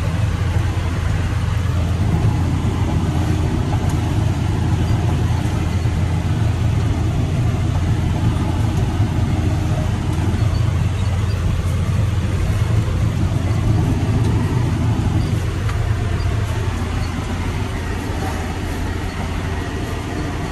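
Tractor engine running steadily under load while pulling a harrow: a constant low drone with rattle and noise over it.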